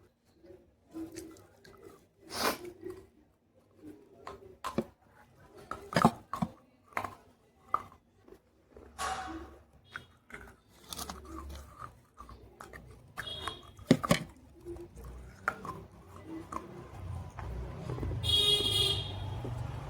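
Pieces of baked clay pot being bitten and chewed close to the microphone: a run of sharp, dry crunches with softer chewing between them, the loudest about six and fourteen seconds in. Near the end comes a brief high-pitched squeak over a low rumble.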